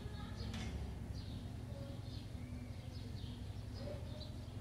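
Small birds chirping repeatedly over a low steady hum, with a faint click about half a second in from handling the slingbow rifle.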